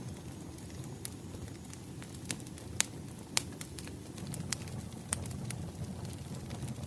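Wood fire crackling, with irregular sharp pops and snaps over a steady low rumble. Two pops about three seconds in are the loudest.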